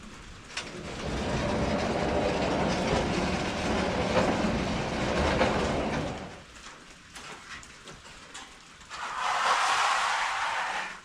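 MechMaxx SM32 bandsaw mill at work: a loud, even noise for about six seconds, then quieter, then a shorter, higher-pitched burst near the end.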